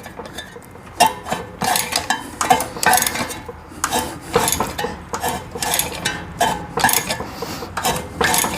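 Hand wrench or ratchet clinking against a Chevy small-block engine as it is worked by hand, with irregular metallic clinks about one or two a second, some ringing briefly.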